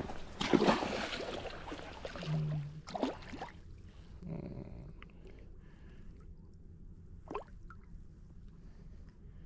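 Water splashing as a blue catfish is released, loudest about half a second in, followed by a few smaller splashes.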